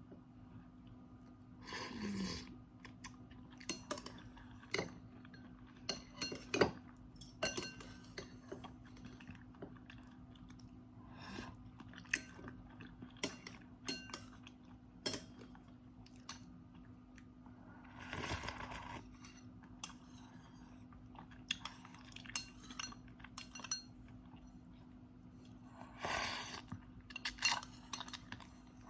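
A person eating instant noodles close to the microphone: chewing, with scattered clicks and clinks of utensils against a bowl, and three longer, noisier mouth sounds spread through the stretch.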